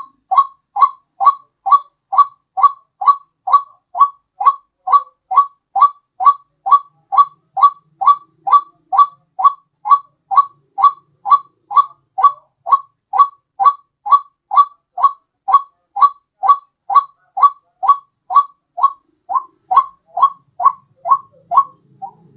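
White-breasted waterhen calling steadily, short rising notes repeated about two and a half times a second, used as a lure call for the bird.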